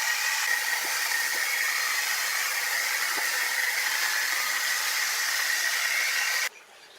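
Sawmill machinery running with a steady whine and hiss, which cuts off abruptly about six and a half seconds in.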